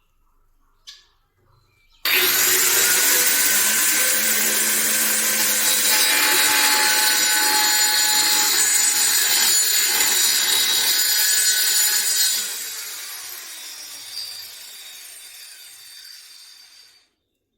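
An electric power tool starts suddenly about two seconds in and runs steadily at full speed for about ten seconds, then is switched off and winds down, its whine falling in pitch and fading until it stops near the end.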